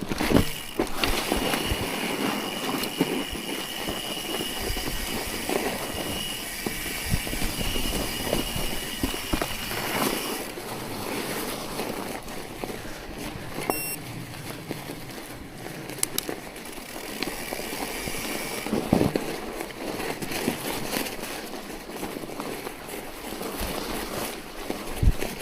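Riding through fresh snow: a steady rush of wind and tyre noise on the microphone with occasional knocks. A thin, steady high squeal sounds for about the first ten seconds.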